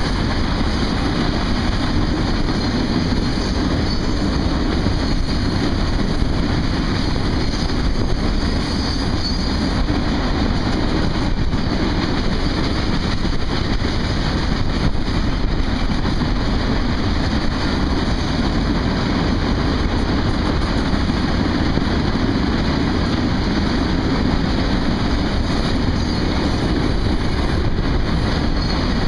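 A coal train's freight cars rolling past: a steady low rumble of steel wheels on the rails, with occasional faint clicks.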